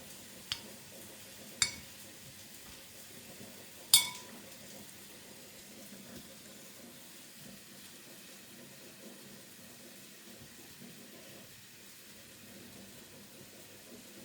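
Kitchen utensils clinking against dishes: three sharp clinks in the first four seconds, the last the loudest with a brief ring, over a faint steady sizzle.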